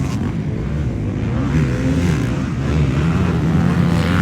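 Motocross dirt bike engine running, its revs rising and falling.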